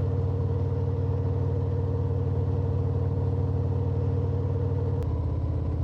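Harley-Davidson Road Glide's V-twin engine running steadily under way, heard from the bike with road and wind noise. The engine note changes slightly about five seconds in.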